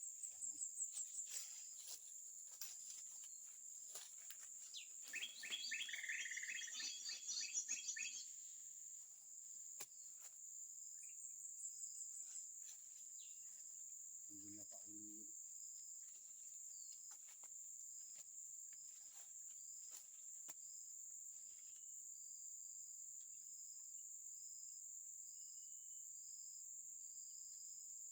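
Tropical forest ambience: a steady high insect drone with a short note repeating about every second above it. About five seconds in, a bird breaks in with a few seconds of rapid, loud chattering. Midway there is a brief low two-note call.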